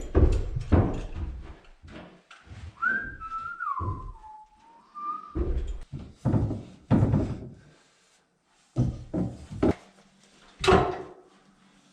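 A person whistling one short falling-then-rising phrase a few seconds in, among a series of irregular thuds and knocks.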